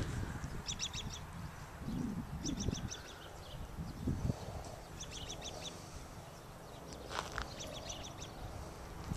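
A bird calling repeatedly outdoors: short quick runs of four or five high notes, heard four times about two seconds apart, over a steady low rumble.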